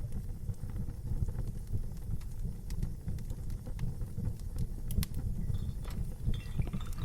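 Wood fire burning with a steady low rumble and irregular sharp crackles and pops, a few louder pops about five and six seconds in.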